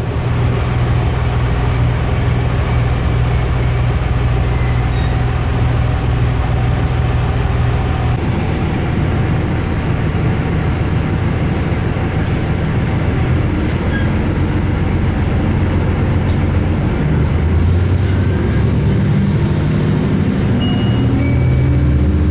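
Diesel railcar running along the line, a steady low engine hum over rail noise. The engine note shifts about eight seconds in and again near the end.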